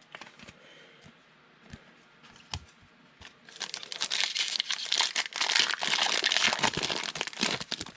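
Foil trading-card pack wrapper being handled with a few light clicks, then torn open and crinkled for about four seconds.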